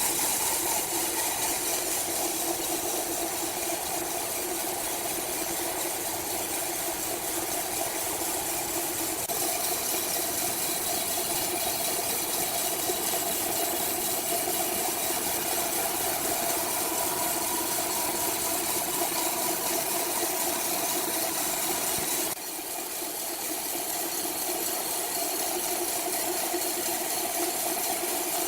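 Sawmill machinery running with a steady, even mechanical drone. It changes abruptly and drops slightly in level about 22 seconds in.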